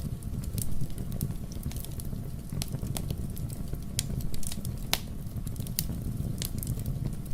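Wood fire burning in a fireplace, crackling and popping irregularly over a steady low rumble of flames. The sharpest pop comes about five seconds in.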